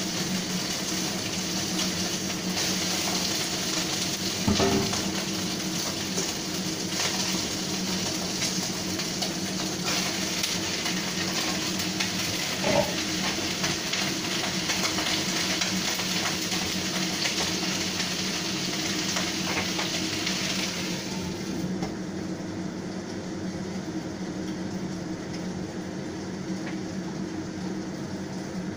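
Vegetables sizzling in hot oil in a wok as they are stir-fried, over the steady hum of a kitchen range hood fan, with a thump about four and a half seconds in and a knock about thirteen seconds in. The sizzle cuts off about three-quarters of the way through, leaving the fan hum.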